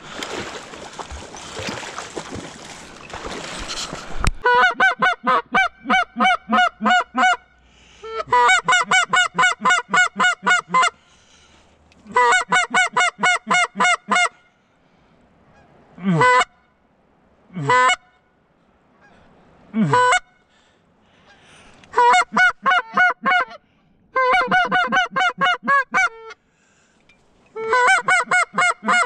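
Loud waterfowl honking calls, given in rapid evenly spaced runs of about three seconds each, with three single calls that fall in pitch midway. A rushing noise fills the first four seconds.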